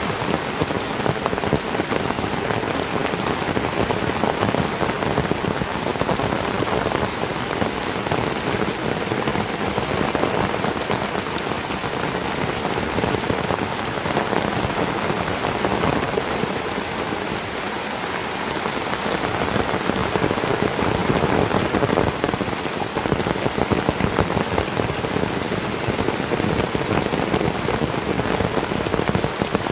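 Heavy tropical rain falling steadily, a dense, even patter that never lets up.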